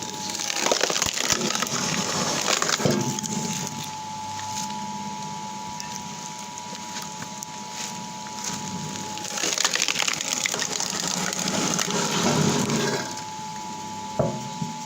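Electric-motor screw-cone log splitter with a heavy flywheel, its cone boring into logs so the wood cracks and splinters apart, twice in long crunching spells, over the motor's steady whine.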